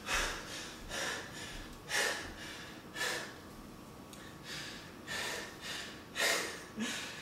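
A man's breathing, a noisy breath roughly once a second.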